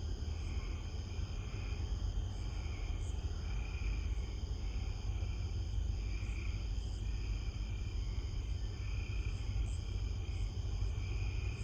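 Night insects chirping in an even rhythm, about one and a half pulses a second, over a steady low rumble.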